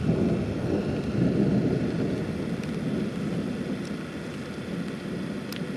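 Thunder from a nearby lightning strike, rumbling low and slowly fading.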